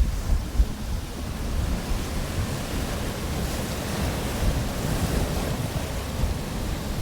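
Pacific surf breaking and washing on the beach, a steady rush that swells in the middle, with gusty wind rumbling on the microphone.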